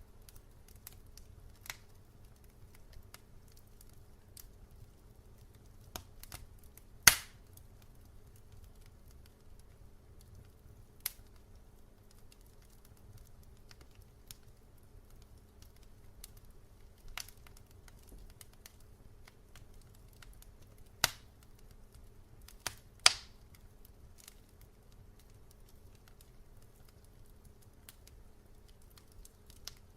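Wood fire burning in a fireplace: a low steady rumble of flame with scattered sharp crackles and pops, the loudest three coming about 7, 21 and 23 seconds in.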